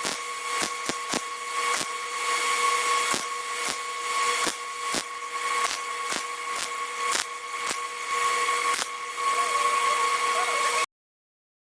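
Handheld electric power tool running steadily on metal, a constant whine over hiss with frequent irregular clicks and knocks, cutting off abruptly near the end.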